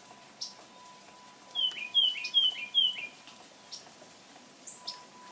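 A songbird sings a quick run of four whistled notes, each slurring downward in pitch, amid scattered short, high chips.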